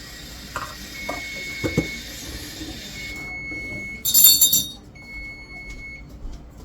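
Kitchenware clinking: a few light knocks, then a louder, bright burst of ringing clinks about four seconds in, like glass or ceramic struck together.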